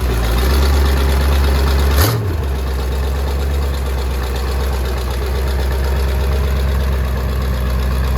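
Twin-turbocharged small-block Chevy 350 V8 idling with a steady low rumble. There is a single brief thump about two seconds in.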